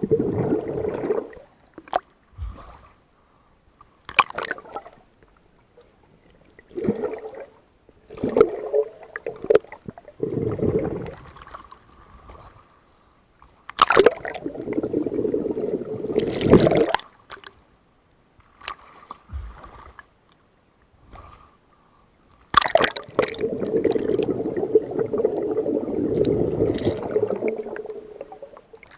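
Water sloshing and gurgling in irregular bursts of a few seconds, with short quiet gaps and a few sharp clicks between them; the longest stretch starts about three-quarters of the way in.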